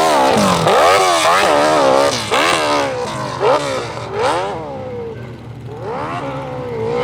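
Big-bore hill climb motorcycle engine revving hard, its pitch rising and falling over and over. It is loudest for the first two seconds, then fainter.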